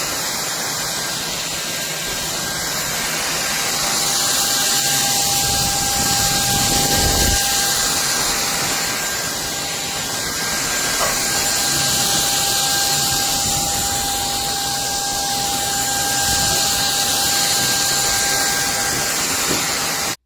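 Cordless stick vacuum cleaner running: a steady rush of air with a high motor whine, its level rising and falling a little, then cutting off abruptly at the end.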